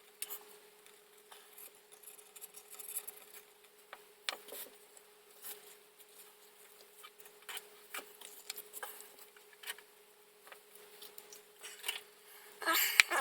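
Plastic model-kit parts being handled and pressed together: scattered small clicks, taps and rubbing, with a louder cluster of clicks and scrapes near the end. A faint steady hum runs underneath.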